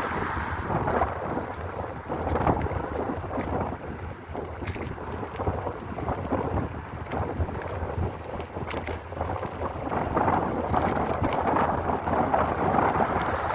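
Wind rushing over the microphone of a moving bicycle, swelling and easing, with a few sharp clicks.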